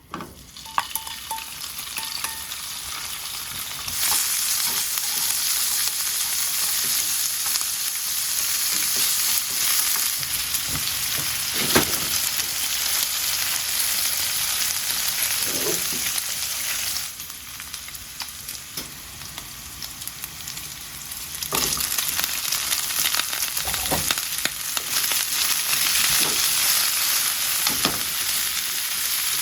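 Bitter gourd and pork belly sizzling as they are stir-fried in a frying pan, with a utensil now and then knocking and scraping the pan. The sizzle grows louder about four seconds in, eases off for a few seconds past the middle, then picks up again.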